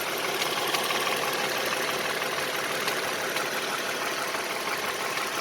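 2015 Toyota Sienna's 3.5-litre V6 idling steadily with a rapid, light ticking from the valvetrain. The ticking comes from the lifters not pumping up fully after long-delayed oil changes, as the owner's mechanic diagnoses it.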